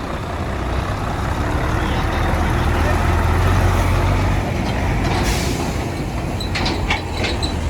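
Heavy truck's diesel engine running, growing louder over the first few seconds, with a short hiss of released air about five seconds in and a few sharp high clicks near the end.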